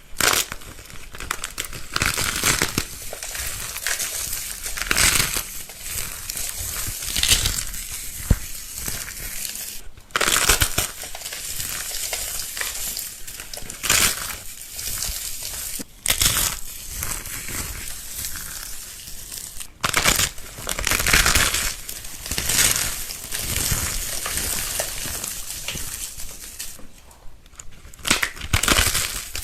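Dry, brittle crafting material (crunchy starched soap or dried clay) being crushed and crumbled, a crackling crunch that swells in repeated squeezes every second or two and breaks off abruptly a few times.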